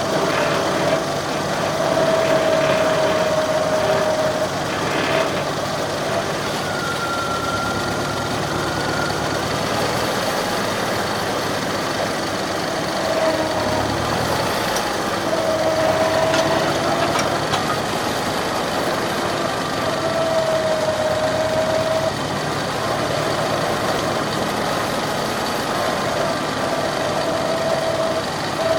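McCormick Farmall H tractor's four-cylinder engine running steadily.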